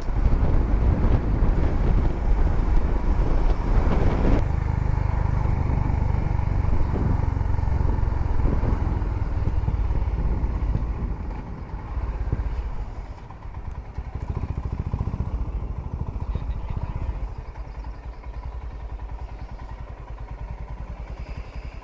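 Royal Enfield Himalayan motorcycle engine running under way, heard from on the bike. It is loud for the first ten seconds or so, then drops to a quieter, steadier note about twelve seconds in.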